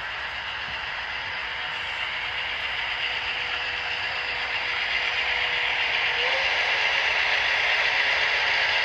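HO scale model train running on the layout: a steady whirr and clatter of wheels on track and motor gearing, growing slowly louder as it approaches.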